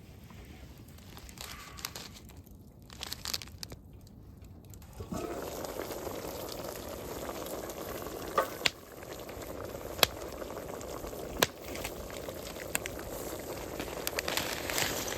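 Crinkling and rustling of packaging for the first few seconds, then a pot bubbling at the boil from about five seconds in, with a few sharp pops.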